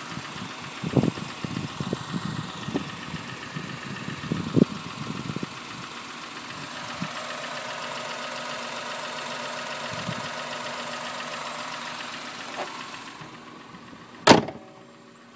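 2001 Honda Insight's 1.0-litre three-cylinder engine idling steadily under the open hood, with microphone static crackling over it in the first few seconds. The hum fades shortly before the end, followed by a single sharp bang.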